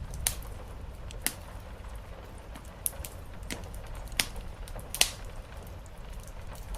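Wood fire crackling, with about six sharp, irregular pops over a steady rumble and soft hiss of rain.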